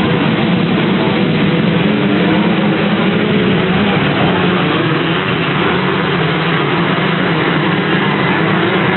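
Many dirt bike engines running hard at once as a pack of motocross bikes races.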